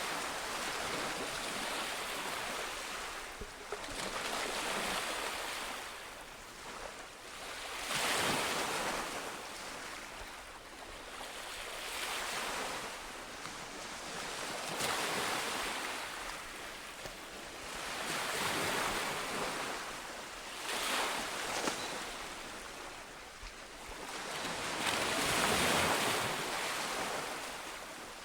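Sea waves breaking on a shore: a continuous wash of surf that swells and falls back every few seconds.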